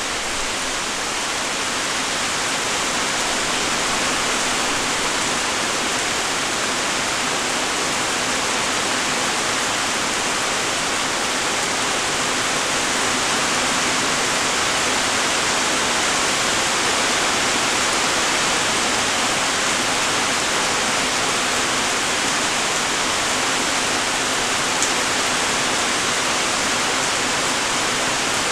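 Steady light rain falling, an even hiss of many small raindrops, with one brief tick of a single drop near the end.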